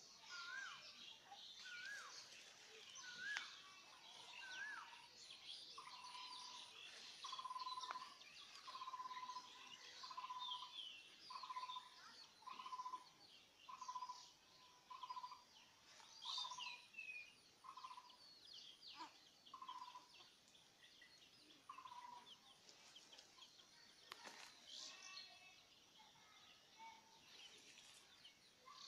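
Birds calling among garden shrubs. One bird repeats a short note over and over, about one every second and a half for much of the time, while other birds twitter and chirp higher.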